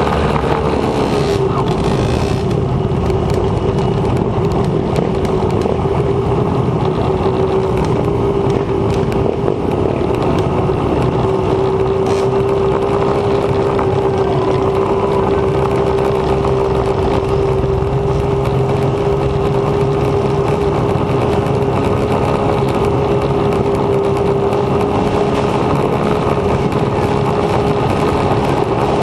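Motocross bike engine running at a steady speed, its note holding nearly constant, with rushing wind and riding noise over the microphone.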